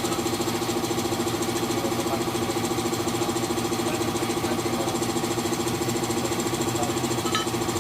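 An engine idling steadily with a fast, even pulse, and a single light click about seven seconds in.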